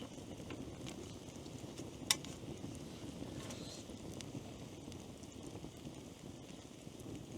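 Steady low rumble of wind on the microphone, with one sharp click about two seconds in and a few faint ticks.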